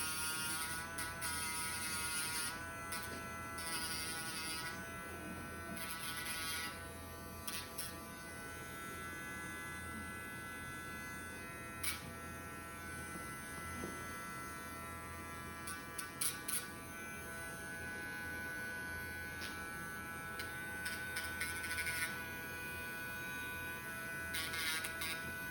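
Small electric rotary nail grinder buzzing steadily as it files down a pet bird's overgrown toenails, with a few brief clicks.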